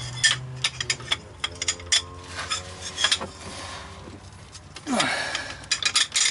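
Steel hand tools clinking and clattering as sockets, extensions and a breaker bar are fitted onto a crank pulley bolt, with a longer rushing sound about five seconds in.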